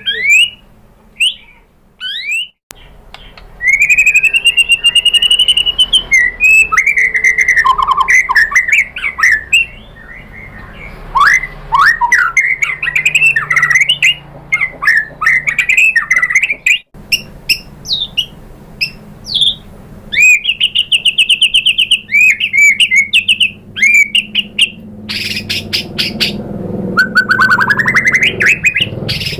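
White-rumped shama (murai batu) singing a long, varied song of rapid whistles, rising and falling glides, trills and chattering phrases, including mimicked 'isian' phrases learned from other birds.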